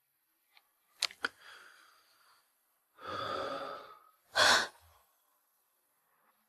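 A person breathing heavily: two sharp clicks about a second in, a long breath out a little later, then a short, sharp gasp near the end, the loudest sound.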